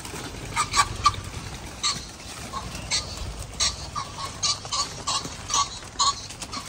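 Birds calling: a string of short, sharp calls, two or three a second at irregular intervals.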